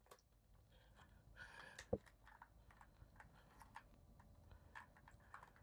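Near silence with faint, scattered clicks and taps of small parts being handled on an RC truck's plastic chassis, one sharper click about two seconds in.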